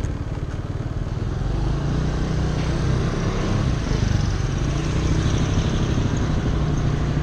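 Scooter engine running as it is ridden, with a steady drone that picks up slightly about a second or two in and then holds.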